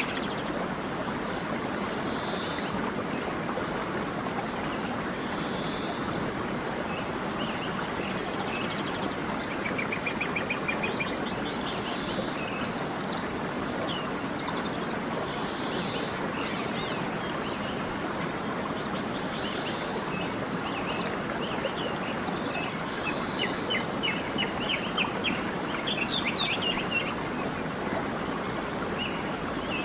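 A creek running steadily, with songbirds calling over it: short chirps and quick trills every second or two.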